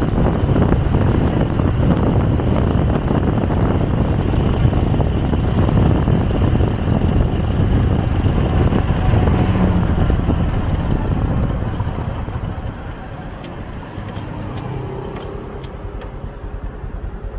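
Motorcycle taxi riding through city traffic: wind rush on the microphone over the engine running. About two thirds in it eases off as the bike slows, leaving a quieter engine puttering near the end.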